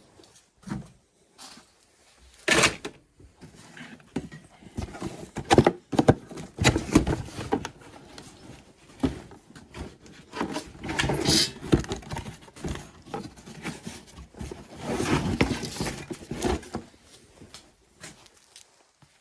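Irregular scraping, rustling and knocking of hands working with tools and materials, in uneven bursts rather than a steady rhythm, with louder scrapes a few seconds in, around the middle and about three-quarters of the way through.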